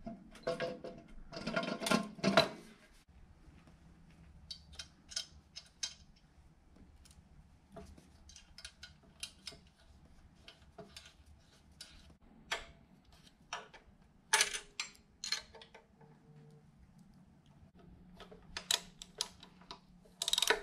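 Scattered metallic clicks, clinks and knocks of hand tools and metal engine parts being handled and fitted, in irregular bunches with a louder cluster near the start.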